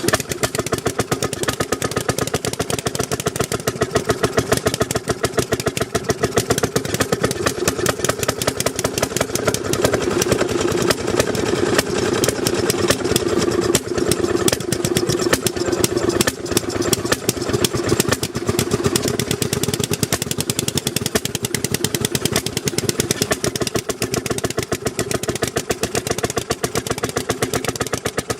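Small engine of a railroad speeder (track motorcar) running steadily, its exhaust a rapid, even popping.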